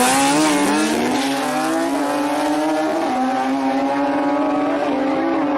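An engine running at high revs: its pitch climbs over the first two or three seconds, then holds high and steady with small dips.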